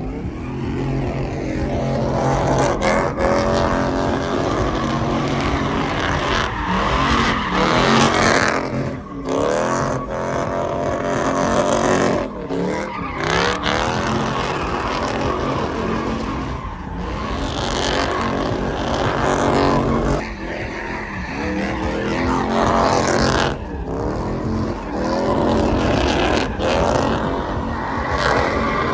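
Truck engines revving hard over and over, the pitch climbing and dropping repeatedly over a dense, noisy background.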